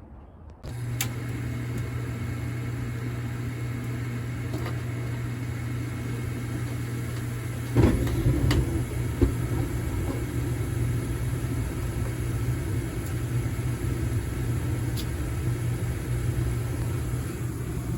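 Old furnace starting up: a steady low hum comes on about a second in, then a sudden loud thump about eight seconds in, after which it keeps running with a slightly heavier rumble. This is the fault behaviour of a 30-year-old furnace that prompted a no-heat service call.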